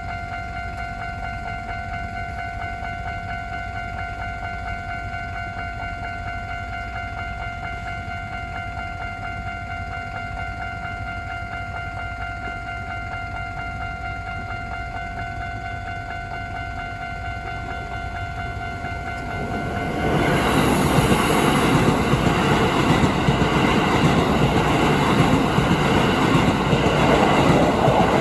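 Level-crossing alarm ringing steadily with its electronic bell tone. About 20 seconds in, a Keisei Line electric train passes over the crossing with a loud rush of wheel and rail noise that lasts to the end and drowns out the bell.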